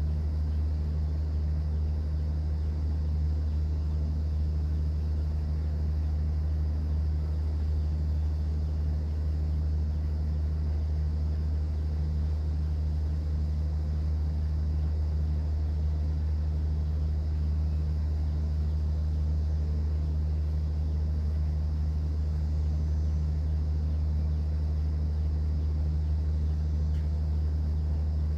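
Cruise boat's engine running with a steady low hum.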